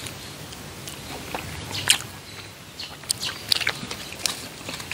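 A person chewing a soft tapioca dumpling, with irregular wet mouth smacks and clicks.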